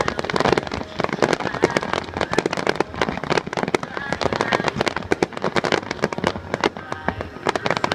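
Fireworks display: a rapid, continuous barrage of sharp bangs and crackles.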